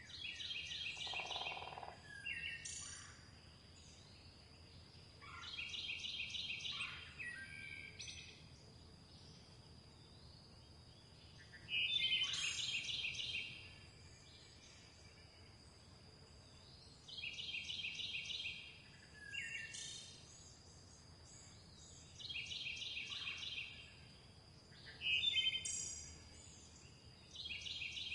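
A songbird singing short phrases of rapid, high repeated notes, each phrase lasting about a second and a half and recurring roughly every five seconds, with a few shorter chirps between them. A faint steady high whine runs underneath.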